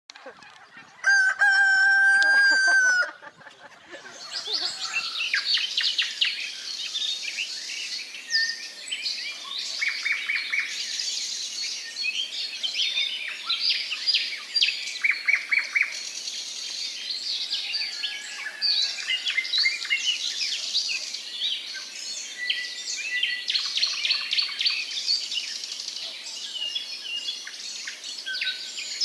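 A rooster crows once, loudly, about a second in, then a dense chorus of small birds chirping and trilling without pause.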